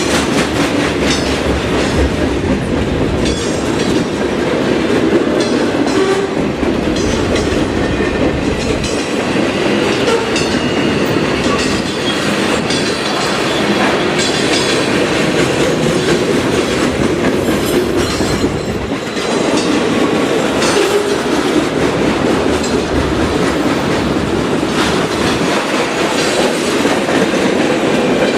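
Train cars rolling past, steel wheels clicking over rail joints in a steady clickety-clack.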